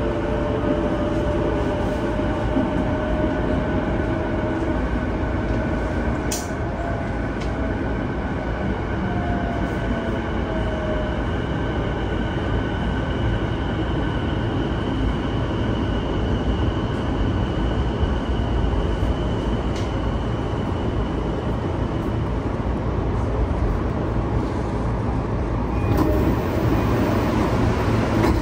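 Interior running noise of a JR E233-1000 commuter train braking into a station: a steady rolling rumble with the held whine of its Mitsubishi IGBT-VVVF inverter and traction motors, which fades out as the train comes to a stop. About 26 s in, a click and a change in the sound as the doors open.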